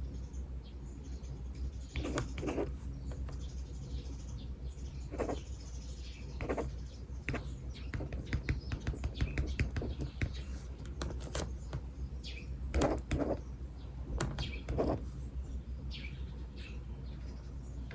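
Birds chirping, mixed with irregular scratches and taps of writing on paper, over a steady low hum.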